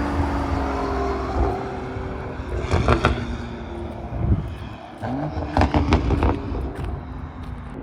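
BMW M340i's turbocharged B58 inline-six running through a valved cat-back exhaust and catless downpipe, its pitch falling off, then rising again about five seconds in, with sharp cracks from the exhaust about three seconds in and around six seconds.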